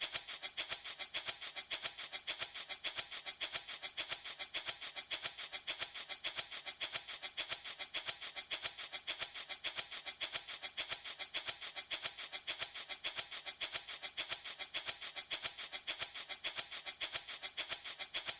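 Handmade wooden baby rattle shaken in a steady, even rhythm, about four to five shakes a second, each a short bright rattle of beads.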